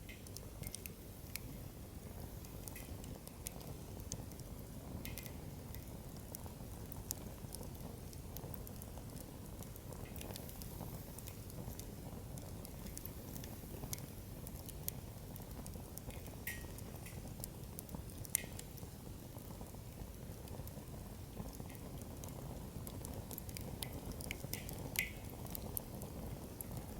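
Wood fire in a fire stand burning strongly: firewood crackling with scattered sharp pops, the loudest about eighteen seconds in and near the end, over a steady low rumble.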